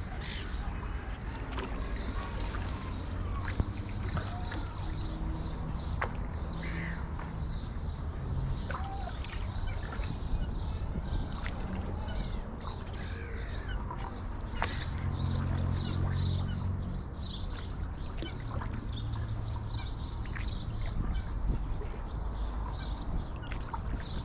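Small songbirds chirping and twittering almost without pause, over a steady low rumble. There are a few sharp knocks, the first about three and a half seconds in, and a low hum swells briefly in the middle.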